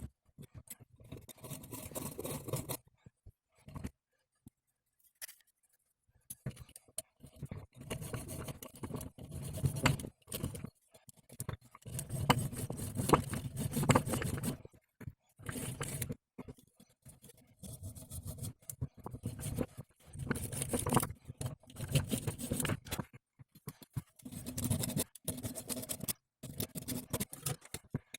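Irregular bursts of scraping and scratching from hand-tool work on the universal joint of a car's front driveshaft, stopping and starting abruptly.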